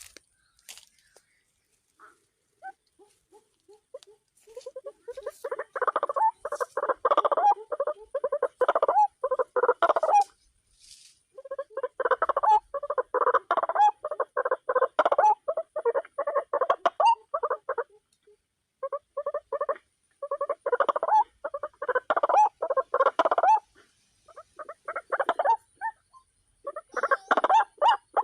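White-breasted waterhen calling: rapid runs of harsh repeated notes in bouts of several seconds, broken by pauses of about a second.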